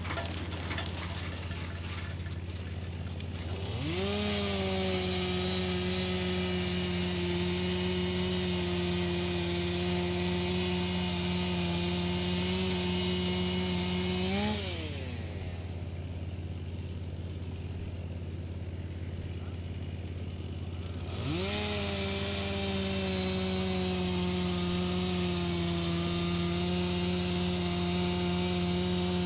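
Wood chipper running with a steady low drone. About four seconds in, its pitch climbs quickly to a higher steady whine with louder, noisier grinding over it, which lasts about ten seconds. It drops away, then climbs back up again about twenty-one seconds in.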